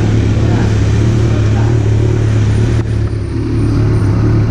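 Kawasaki Z900 inline-four engine idling steadily in neutral, with a low, even hum.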